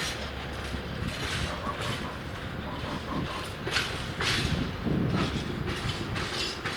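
A train running past, its wheels clacking over rail joints amid a steady rolling rumble.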